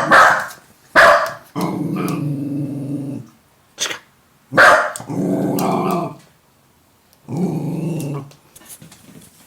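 Jack Russell terrier barking at its own reflection in a mirror, with about four sharp barks between three long, low growls of a second or more each.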